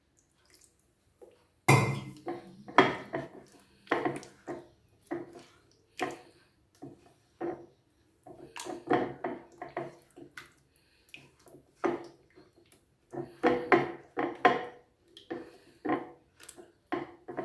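A spoon stirring a thin batter of maida flour, salt and water in a bowl, clinking and scraping against the bowl at an irregular pace, one or two strokes a second.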